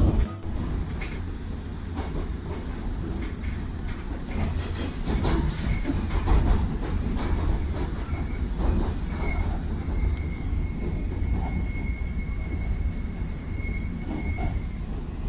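JR 115 series electric train heard from inside the car: a steady low rumble of wheels on rails with scattered clicks, and from about nine seconds in a thin, high, steady squeal as it comes into the station.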